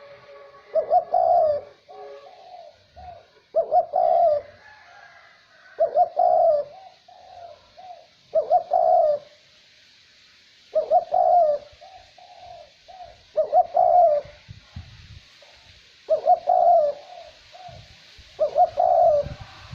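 A male 'cu moi' dove cooing in repeated phrases, about one every two and a half seconds, each a strong coo followed by a few shorter notes, over a faint steady hiss of light wind.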